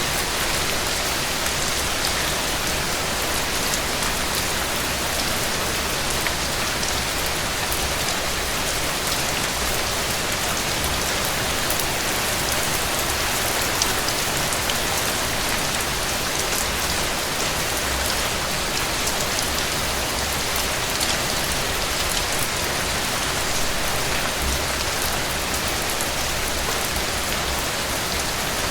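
Heavy rain falling steadily on a cabin porch, a dense even hiss with scattered sharp ticks of drops.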